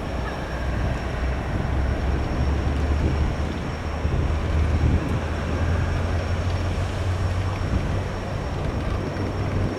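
Low rumble of a Boeing 737-700's jet engines as the airliner rolls out after landing, over a steady hiss. The rumble builds about half a second in and eases off near the end.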